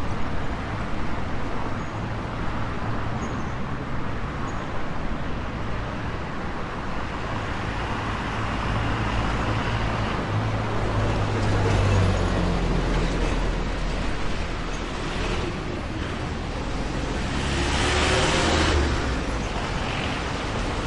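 City street traffic: a steady wash of cars and buses running, with an engine hum swelling about halfway through and a louder vehicle passing with a hiss near the end.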